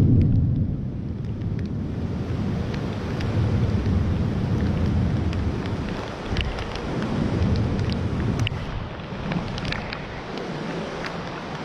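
Stormy weather: a low rumble that swells and fades several times, with wind buffeting the microphone and scattered sharp ticks.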